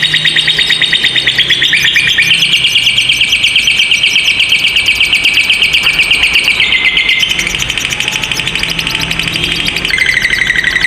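Lovebird giving a long unbroken 'ngekek' trill: a loud, high, rapid chattering that runs on without a pause, its pitch shifting up and down a few times.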